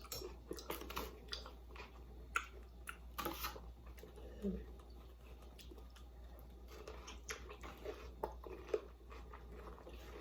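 A person chewing a bite of chili and cream cheese stuffed bell pepper, with irregular crunches and mouth clicks and a brief low hum about halfway through.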